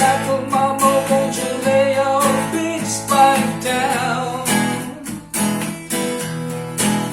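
Music: acoustic guitar strumming steadily, with a sustained melody line over it that bends in pitch.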